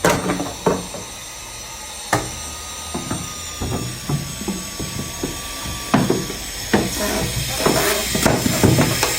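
Irregular knocks and clicks of hard objects being handled and set down, a few sharp knocks standing out among smaller taps.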